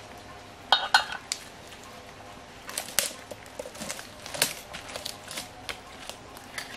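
Scattered clinks and clatters of hard objects, the loudest a quick cluster with a brief ring about a second in, then sporadic single knocks.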